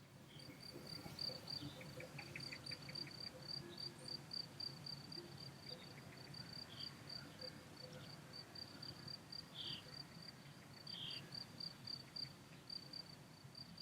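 Faint cricket chirping in a steady, even pulse of a few high chirps a second, with a few brief higher chirps from something else.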